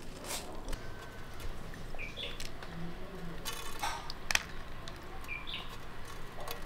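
A few short bird chirps, with scattered sharp clicks and one brief rattling burst in the middle.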